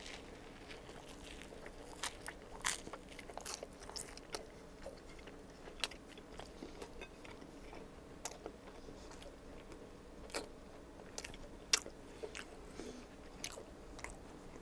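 A person biting and chewing a chicken spiedie sandwich of grilled marinated chicken in a toasted sub bun, close to the microphone. Soft mouth sounds are broken by scattered sharp, crisp crunches and clicks at irregular intervals.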